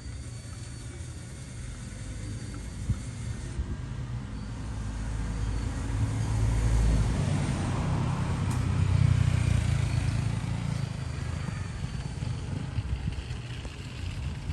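A motor vehicle engine rumbling with a steady low hum. It grows louder toward the middle, then eases off.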